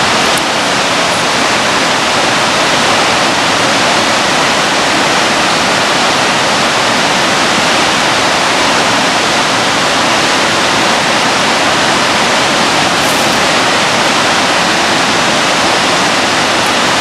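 Waterfall rushing, a loud, steady roar of falling water with no change.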